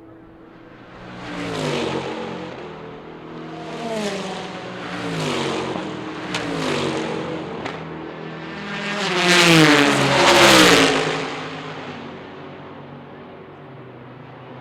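Race cars passing at speed one after another, each engine note dropping in pitch as it goes by. The loudest, two cars close together, pass about ten seconds in.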